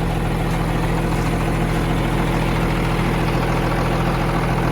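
John Deere 8640 tractor's diesel engine idling steadily, a low even hum with no change in speed.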